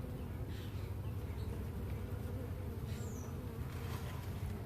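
Honeybee colony humming steadily inside a glass aquarium observation hive: a low, even buzz of many bees.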